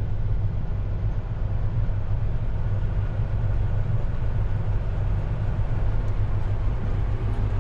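Farm tractor engine running steadily with a low, even drone.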